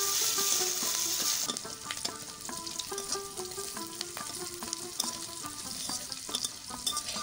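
Chopped garlic, ginger and green chillies sizzling in hot oil in a metal kadai, stirred with a metal spatula that scrapes and clicks against the pan. The sizzle is loudest for the first second and a half, then settles to a softer frying sound.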